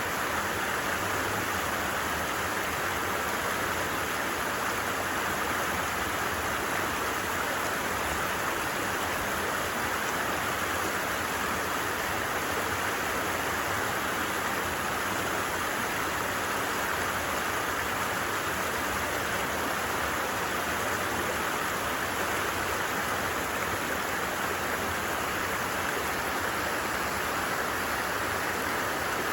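A brook running steadily: an even rushing and babbling of water that does not change.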